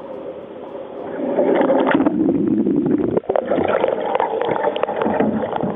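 Water sloshing, splashing and gurgling around a sea kayak, picked up by a camera mounted on the boat. It gets louder about a second in and stays busy, with a crackle of small splashes.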